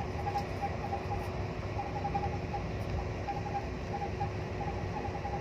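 Passenger train running, heard from inside the carriage: a steady low rumble with a constant hum under it, and short high notes that come and go in little runs.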